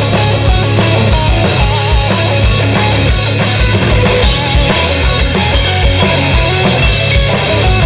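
Live rock band playing an instrumental intro: driving drum kit with a fast, steady bass-drum pattern and snare, under bass and distorted electric guitar.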